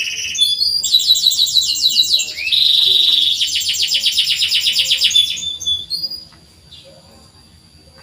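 Domestic canary singing a run of fast, high trills, one trill after another at different pitches. The song stops about six seconds in, leaving only faint chirps.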